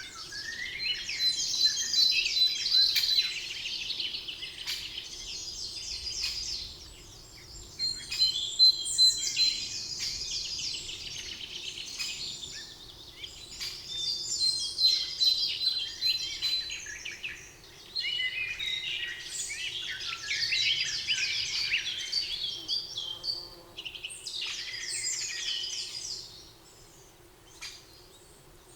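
Several songbirds singing in a spring forest: rapid trilled and chirping phrases in bouts of a few seconds with short pauses, over a faint steady background hum. The song dies down near the end.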